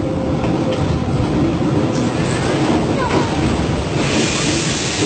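Steady rumble of a commuter train running, with a loud hiss starting about four seconds in.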